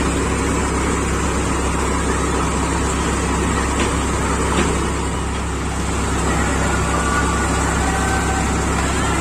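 Tractor engine running steadily under load during paddy threshing.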